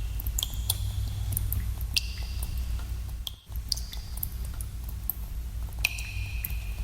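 Water drops falling in a cave, irregular plinks a few times a second, each with a short ringing pitch, over a steady low rumble. The sound drops out for a moment about halfway through.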